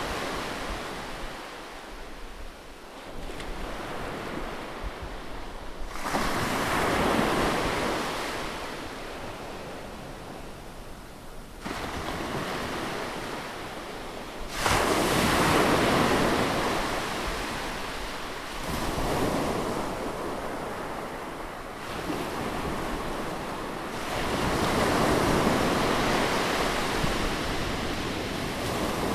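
Sea waves breaking close on a shore, each wash of surf swelling and then fading away, a new wave every four to six seconds; the loudest one comes about halfway through.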